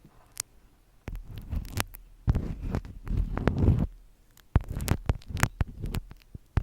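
Close-miked ASMR handling sounds: bursts of soft low thuds and rustling with sharp clicks and taps, after a near-silent first second.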